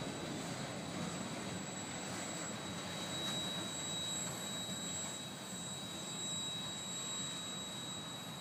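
Freight train of enclosed autorack cars rolling past, a steady rumble of wheels on rails.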